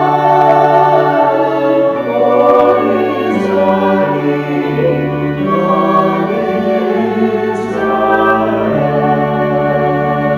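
A choir sings a hymn over an instrumental accompaniment, with bass notes held and changing chord by chord.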